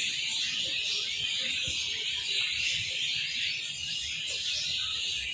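Many small birds chattering and chirping at once, a dense, steady, high-pitched chorus with no single call standing out.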